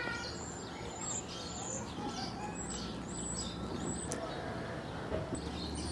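Small birds chirping repeatedly, short high calls over a steady background hum.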